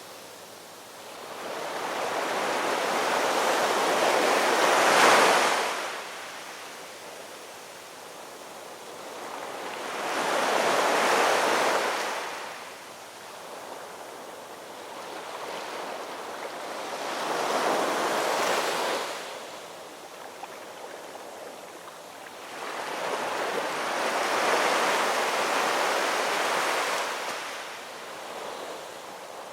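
Ocean waves washing in one after another, four swells that build and fall away roughly every six to seven seconds, the first the loudest about five seconds in.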